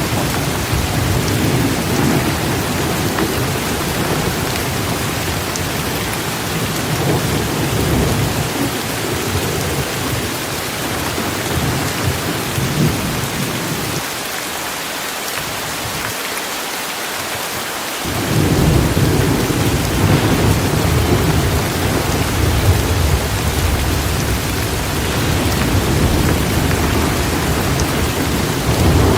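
Steady rain hissing, with a low rolling thunder rumble underneath. The rumble fades out for a few seconds around the middle, then comes back stronger.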